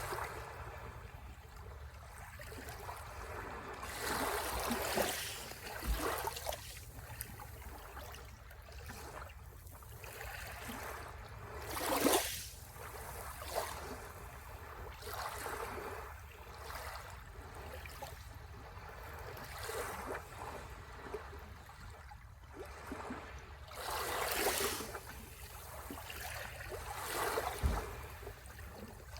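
Sea waves breaking and washing on the shore: a steady low rumble with swelling surges of hiss every few seconds, the loudest about twelve seconds in and again near twenty-five seconds.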